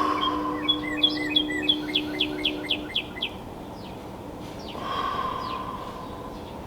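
Songbird singing a quick run of about ten clear down-slurred notes in the first half, followed by a lower, longer bird call about five seconds in.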